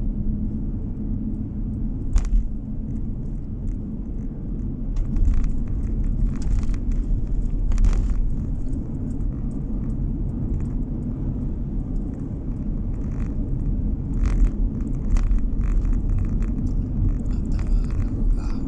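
Steady low rumble of a car being driven, heard from inside the cabin: engine and tyre road noise, with scattered short knocks and ticks.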